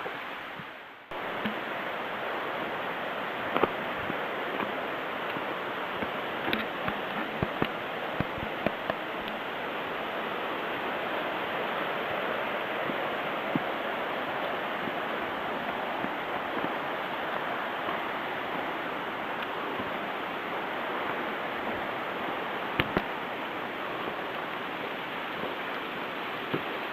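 Steady rushing of a mountain stream, broken by a brief drop about a second in, with scattered sharp clicks and knocks over it.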